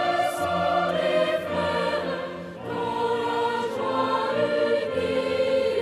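A choir singing slow, held notes.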